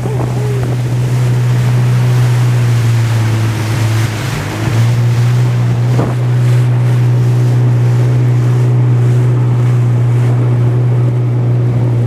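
Jet ski engine running steadily over wind and water noise out on rough sea; its note sags briefly about four seconds in, then picks back up. A single sharp knock about six seconds in.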